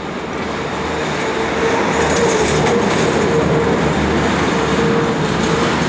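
Boeing 737-600's CFM56-7B turbofan engines at takeoff power: a steady jet roar with one held tone, growing louder about a second and a half in.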